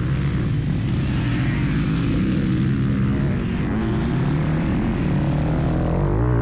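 Motocross dirt bike engine running hard, its revs rising and falling as the rider works the throttle, then holding steadier near the end.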